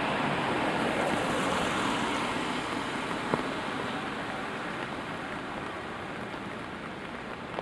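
Steady rain with a car's tyres hissing on the wet road, loudest at first and slowly fading as it moves away. One sharp tick a little over three seconds in.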